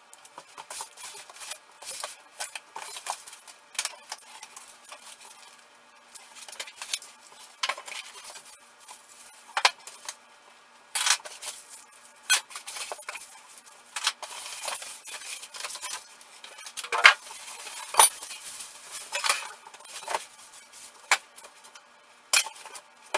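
Unpacking a boxed 10-inch bench drill press: metal parts clanking and knocking against each other and the box, with stretches of rustling and scraping from the packing.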